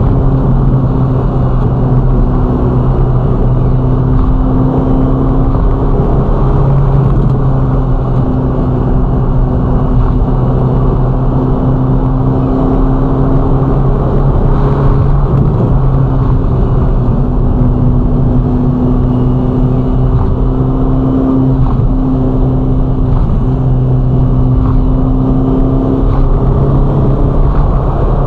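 Ferrari Roma's twin-turbo V8 cruising at a steady engine speed: a constant drone that barely changes pitch, over a bed of road and wind noise.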